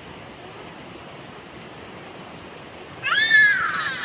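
A loud animal call about three seconds in, after steady background noise: it rises, arches and falls in pitch, then carries on in a wavering tail.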